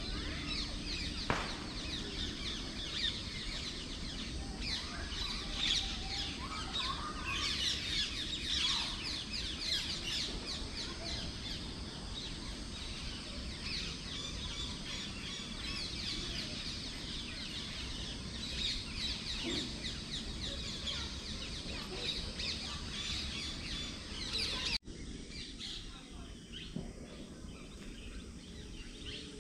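Many rapid, high-pitched chirping animal calls over a steady low background noise, cut off abruptly about 25 s in, after which only fainter calls remain.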